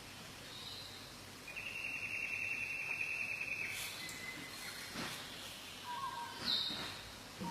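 Birds calling over a faint background hiss. A buzzy, trilled note of about two seconds starts about a second and a half in, followed by a few sharp clicks and short whistled notes, one of them falling near the end.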